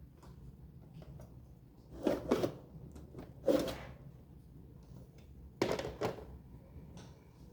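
Hard knocks and clatter of computer parts being handled and set down while a desktop system unit is taken apart, in three bursts about two, three and a half and five and a half seconds in, with small clicks between.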